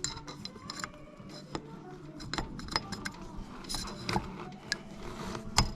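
Small metal clicks and taps as the piston pin is worked into the Kawasaki KLX125's piston and connecting rod small end, with a sharper click near the end as the pin goes in.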